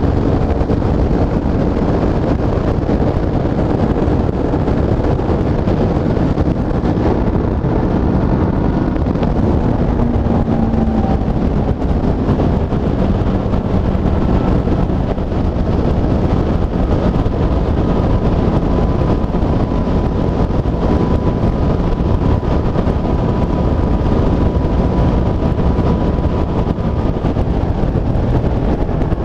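Honda CB500F's parallel-twin engine running at speed under heavy wind noise on the microphone, its pitch mostly steady with a slight shift about ten seconds in.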